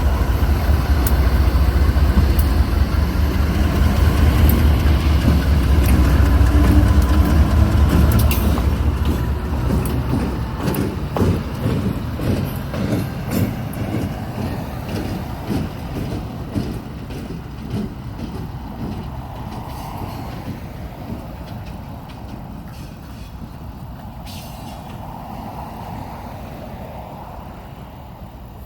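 A freight train passing, pulled by GE B39-8E diesel locomotives. A loud, deep engine rumble gives way at about ten seconds to the rhythmic clickety-clack of car wheels over rail joints, and the sound fades as the train moves away.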